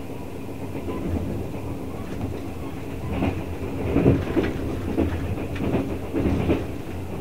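Railway passenger coach running at speed, heard from inside the car: a steady low rumble, then from about three seconds in a run of clickety-clack knocks as the wheels pass over rail joints.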